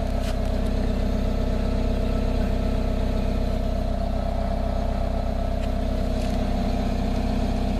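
Car engine idling steadily, its exhaust note heard close to the tailpipe.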